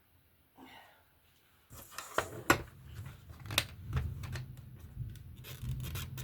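Craft supplies being handled and rummaged through in a plastic storage case: a faint rustle, then from about two seconds in a run of sharp clicks and knocks of small items and the case being moved.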